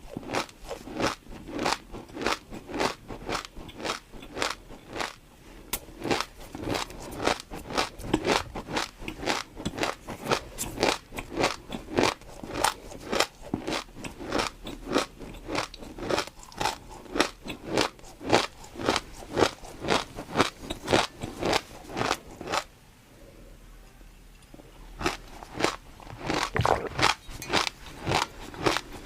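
Close-miked chewing of crunchy food: rapid crisp crunches, about three a second, with a break of about two seconds near the end before the chewing starts again.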